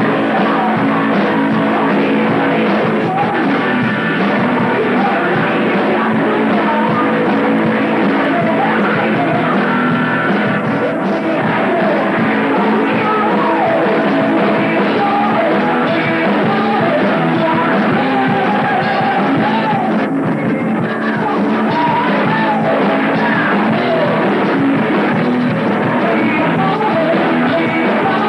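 Heavy metal band rehearsing live, with a vocalist singing and yelling over the full band, on a rough bootleg room recording. The playing is loud and unbroken throughout.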